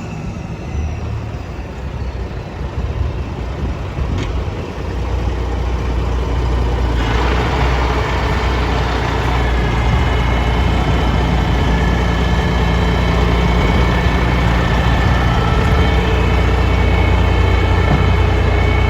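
Caterpillar C15 diesel engine of a Kenworth T800W dump truck idling with a steady low rumble that grows gradually louder. A higher-pitched hiss comes in suddenly about seven seconds in and stays.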